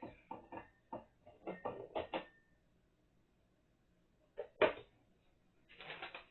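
High chair frame parts being handled and fitted together: a quick run of light clicks and knocks, a pause, then one louder knock about four and a half seconds in and a short rustle near the end.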